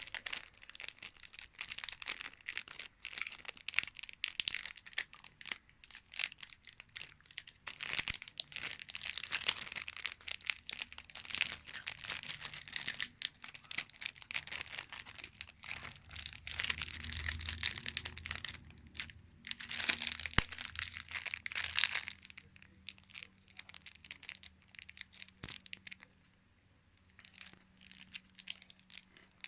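Packaging being crinkled and torn open by hand in rapid rustling handling, easing off for the last several seconds.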